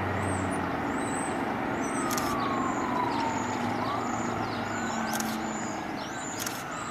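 Emergency vehicle siren wailing, its pitch sliding slowly down and back up in long sweeps of a few seconds each, over the steady noise of vehicles running.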